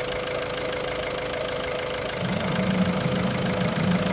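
Ford Focus 2.0 TDCi diesel engine idling with a steady whine; about two seconds in the heater blower fan comes on, adding a louder hum as electrical load goes onto the new alternator.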